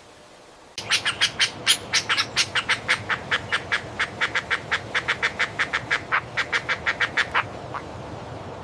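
A bird calling in a fast run of short, squawking notes, about seven a second, starting about a second in and stopping near the end.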